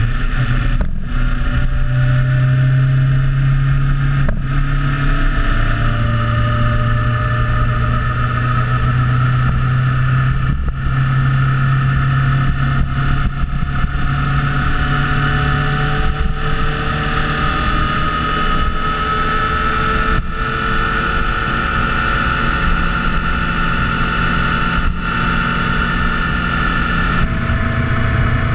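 Motorcycle engine running steadily while riding, its pitch drifting up and shifting a few times, with wind and road noise throughout.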